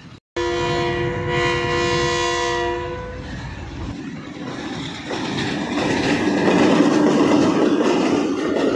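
Pakistan Railways locomotive horn sounding one long, steady multi-note chord for about two and a half seconds. The train then runs on with a clattering rumble that grows louder toward the end.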